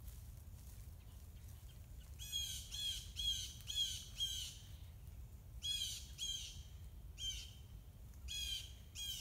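A bird calling with short, harsh, slightly falling calls: a run of five about half a second apart, then more in ones and twos.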